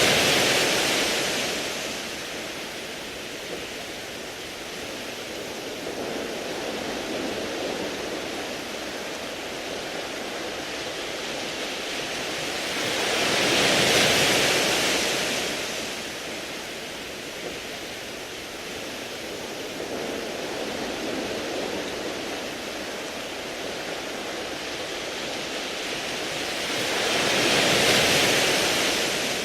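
Sea waves washing in over a beach of smooth round pebbles, a steady rushing hiss. Three big waves peak about fourteen seconds apart: one right at the start, one in the middle and one near the end, with a lower wash between them.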